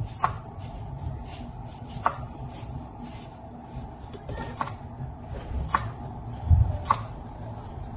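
A handful of sharp taps and knocks, about five in eight seconds and irregularly spaced, over a low steady background rumble.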